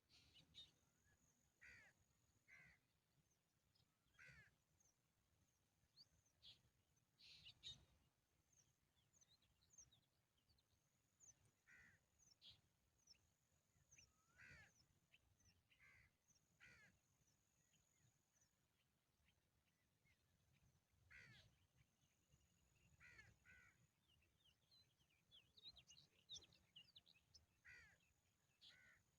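Faint wild birds calling: short chirps and quick call notes, one every second or two, with a thin, high, steady whine that comes and goes.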